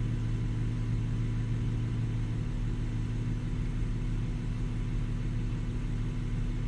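BMW B58 3.0-litre turbocharged inline-six idling steadily, with a low even hum. It is freshly filled with 0W-20 oil and not yet warm enough for the car's electronic oil-level measurement.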